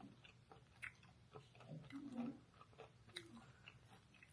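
Faint close-up chewing of a fried chicken tender: scattered small wet mouth clicks, with a short low hum about two seconds in.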